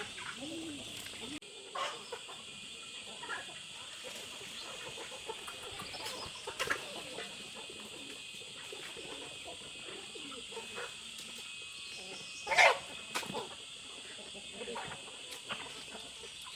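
Chickens clucking on and off over a steady high-pitched drone, with one short loud call about three-quarters of the way through.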